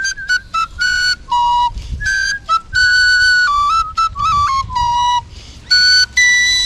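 Six-hole Russian svirel, an end-blown folk flute, playing a melody in short separated notes that step up and down in pitch.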